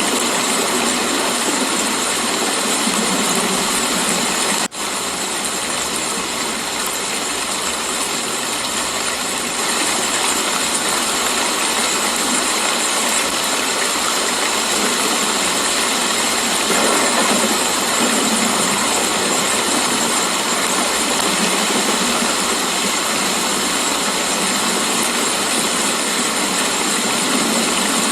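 Steady rainfall: an even, dense hiss of rain with no thunder, broken once by a split-second dropout about five seconds in.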